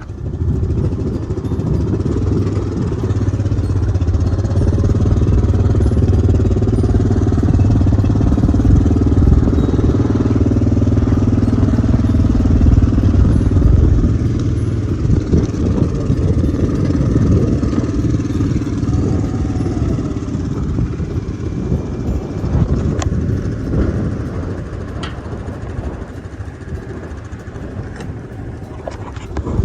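Outboard boat motor running steadily, easing off and fading gradually through the second half.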